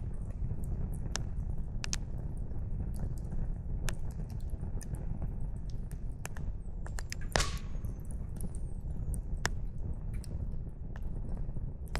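Wood campfire crackling: firewood popping in scattered sharp snaps, with one louder pop a little past the middle, over a steady low rushing background.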